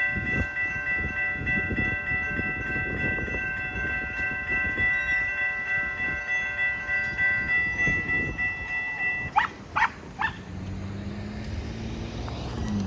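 Railroad crossing bell ringing steadily while a passenger train rolls through, its wheels clacking rhythmically over the rails. About nine seconds in the bell stops after a few short rising tones, and a steady low hum remains as the trailing locomotive passes.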